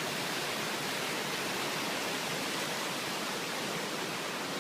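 Steady hiss of rushing water, even and unbroken.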